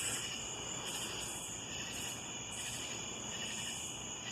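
Steady chorus of night insects trilling, with a higher, rasping pulse repeating about once a second.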